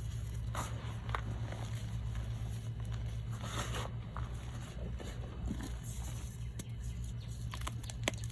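Reformed gym chalk or baby powder blocks being crushed, giving a few scattered dry crunches and crumbles, one longer about halfway through and two quick ones near the end, over a steady low hum.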